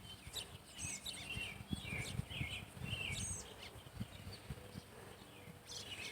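Songbirds chirping repeatedly, short quick calls, over low scattered thumps and rumble as the bicycle is ridden.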